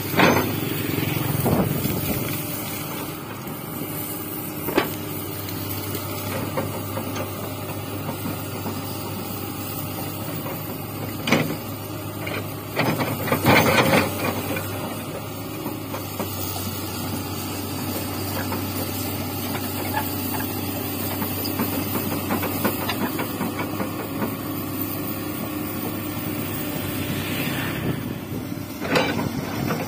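Excavator's diesel engine running steadily under load, with sharp clanks and knocks every few seconds from the bucket and arm working earth and rock. The loudest cluster of knocks comes a little before the middle.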